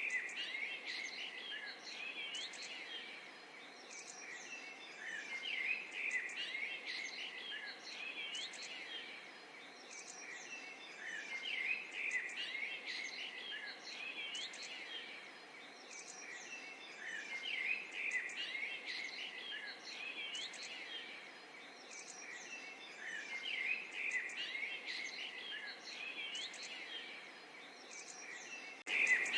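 Many small birds chirping and twittering, overlapping quick calls over a light outdoor hiss, swelling and fading about every six seconds.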